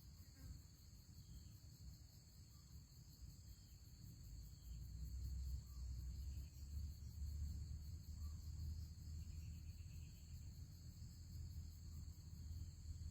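Steady, faint high-pitched chirring of crickets, with a low rumble underneath that gets louder about four to five seconds in.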